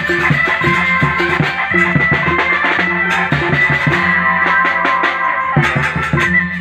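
Live band music: a steady, driving drum beat under a held melody line.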